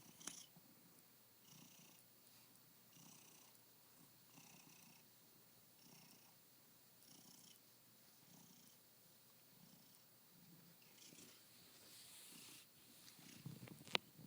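Domestic cat purring softly, the purr swelling and fading with each breath, with a sharp click near the end.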